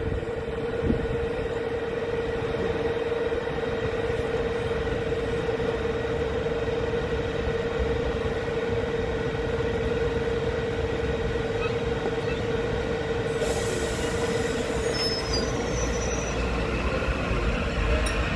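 Metro-North commuter train running through the station, with a steady whine held for most of the time over a rumble. A high hiss comes in about three-quarters of the way through.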